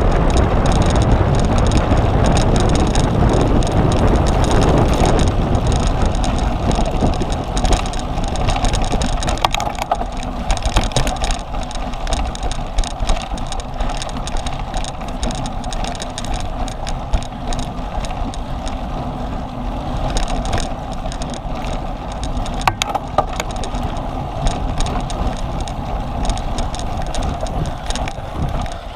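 Cyclocross bike being ridden hard: a steady rush of wind on the onboard camera's microphone, with tyre and chain noise. It eases a little about ten seconds in, and a few sharp clicks and knocks from the bike come through.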